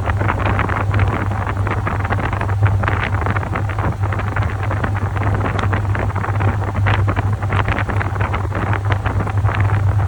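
Top-loading washing machine running, with a steady low motor hum under constant, irregular churning and splashing of water in the tub.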